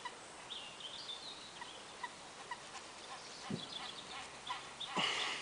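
Faint bird calls: a series of short repeated chirping notes with an occasional brief whistle-like glide. There is a soft thump about three and a half seconds in and a brief louder rustle near the end.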